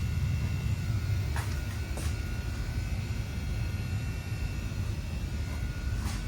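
Steady low mechanical rumble with two faint steady high whines, typical of HVAC machinery running, with a couple of light taps about one and a half and two seconds in.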